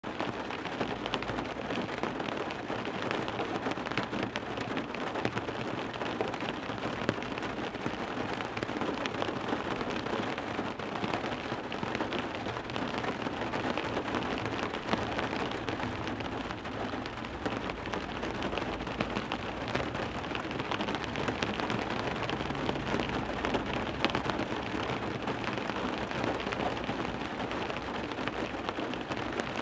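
Heavy rain falling on a car window: a steady, dense hiss of drops with many small ticks of single drops striking the glass, keeping up without a break.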